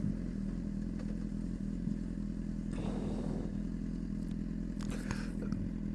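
Honda CBR600RR motorcycle's inline-four engine running at steady, unchanging revs.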